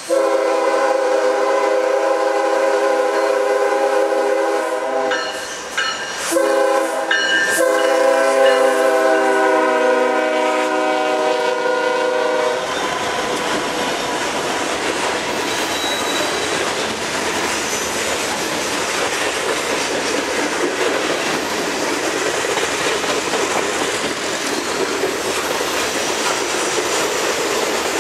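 Norfolk Southern diesel locomotive's multi-note air horn sounding for a grade crossing: long blasts with two short breaks, stopping about twelve seconds in. Then the freight cars, covered hoppers, roll past with steady rumbling and clickety-clack of wheels over the rail joints.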